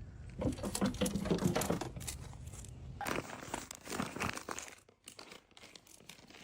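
Irregular crinkling and crackling, busiest in the first half and dying away about five seconds in.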